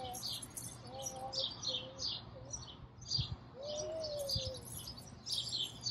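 Songbirds chirping, a busy run of short high chirps that keeps going throughout.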